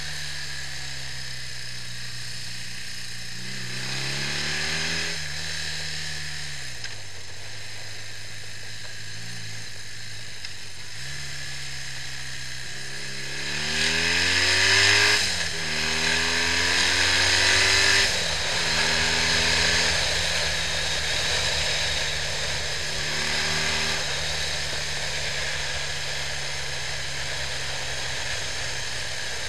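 BMW R65 air-cooled flat-twin engine on the road: it revs up briefly a few seconds in, then accelerates hard around the middle, loudest there, with its pitch climbing and dropping in steps as it shifts up through the gears, before settling into steadier running.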